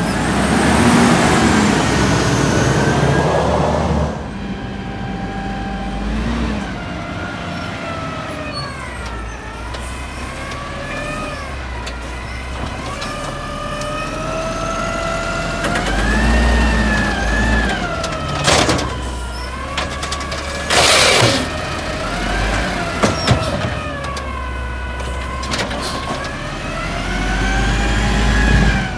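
Garbage truck at work: a whine from the engine and hydraulics that rises and falls in pitch over and over as the lifting mechanism cycles. A loud hiss fills the first few seconds, and short bursts of hiss come about two-thirds of the way through.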